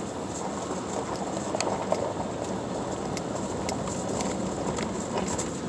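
Car cabin noise while driving: a steady rumble of road and engine, with a few faint clicks scattered through it.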